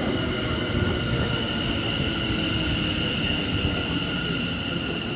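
Electric passenger train moving through the station: a steady rumble of wheels on rail with a steady high-pitched whine over it.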